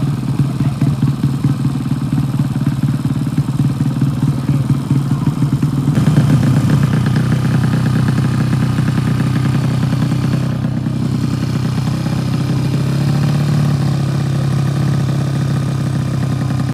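Racing motorcycle engines running steadily with a fast pulsing exhaust note. They get louder and brighter about six seconds in.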